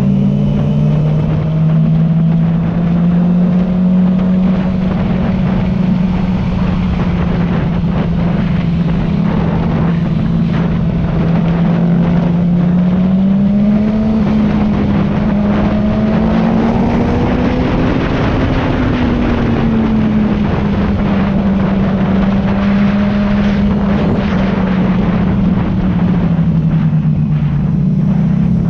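Sport motorcycle engine running at a steady cruise under heavy wind rush, heard from the rider's seat. About halfway through the engine note climbs in pitch for several seconds, then eases back down.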